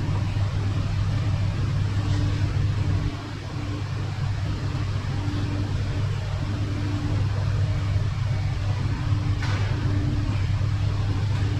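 Steady low mechanical hum, with a faint higher tone that comes and goes from about two seconds in.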